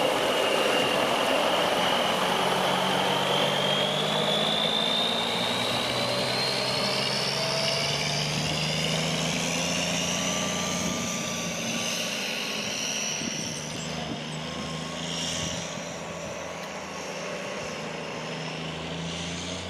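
Truck engine running steadily, with a high whine that rises slowly in pitch over the first half and then holds.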